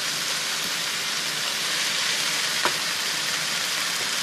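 Raw chicken strips sizzling steadily in a hot skillet of sautéed onions and capsicum in olive oil, with a faint click about two and a half seconds in.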